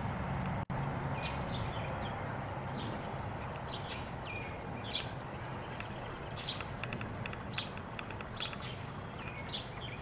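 Small birds chirping: short high chirps, some sliding downward, repeating every half second to a second over a steady low background rumble. The sound cuts out for an instant under a second in.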